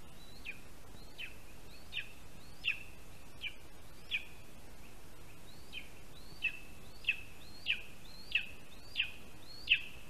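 A bird calling a long series of short, sharp, down-slurred notes, about one and a half a second, faint at first and growing louder toward the end after a brief pause midway.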